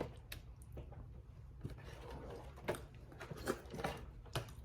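Close-miked eating of boiled crawfish: scattered soft clicks and smacks of chewing, sucking and shells being handled.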